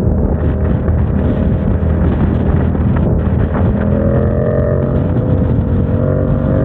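Motorcycle engine running steadily under way, with wind rushing over the microphone. A fainter higher tone wavers in and out in the middle.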